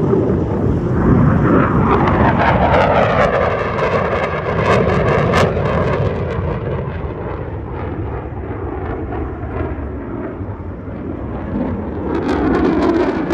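An airplane flying past, loud, its engine pitch falling steadily as it passes. Near the end the sound swells again with a rising pitch as an aircraft approaches.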